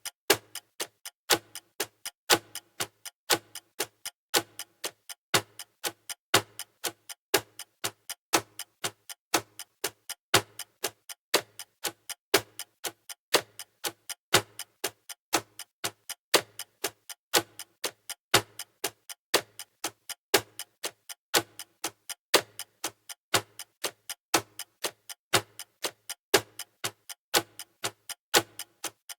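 Countdown timer's clock-tick sound effect, ticking at an even pace: a sharp tick about once a second with softer ticks in between.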